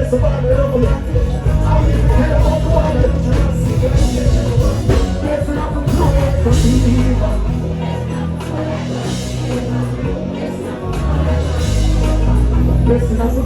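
Live dancehall music over a concert sound system: a heavy bass-driven riddim with vocals on top. The bass drops out for a few seconds past the middle, then comes back in.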